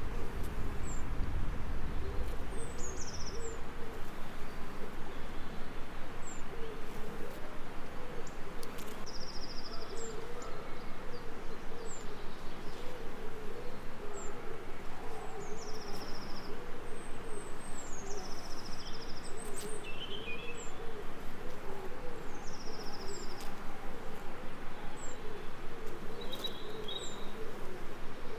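Birdsong: short high chirps repeated every second or two, with a quick falling trill every few seconds. Under them runs a low, wavering call that pulses rapidly.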